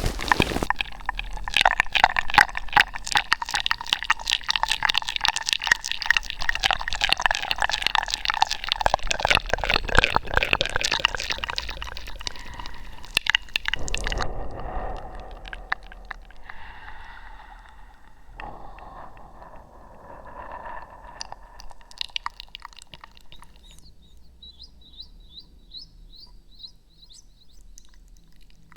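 Close-miked wet ASMR mouth sounds: rapid clicking and smacking, thinning out and softening about halfway through, then a quick run of about a dozen high chirps near the end.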